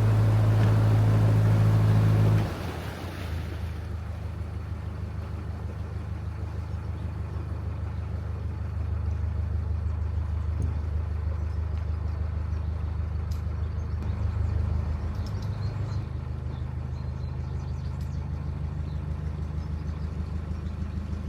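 Narrowboat's diesel engine running with a low, steady beat. About two and a half seconds in it is throttled back sharply and runs on at low revs, picking up slightly a couple of times.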